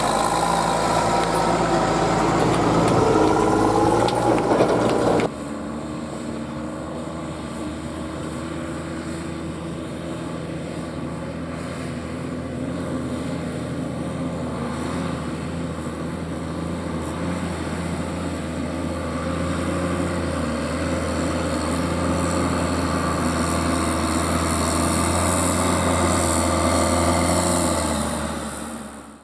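Ploeger pea harvester's engine running, a steady low drone. About five seconds in the sound cuts abruptly to a steadier drone that slowly grows louder, then fades out near the end.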